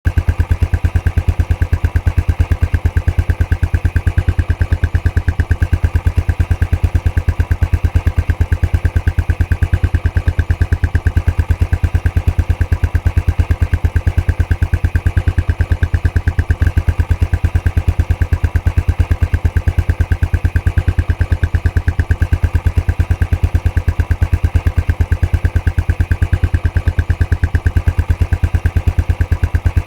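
Royal Enfield Classic 500's single-cylinder engine idling through its stock exhaust, a steady, even beat of exhaust pulses that doesn't change.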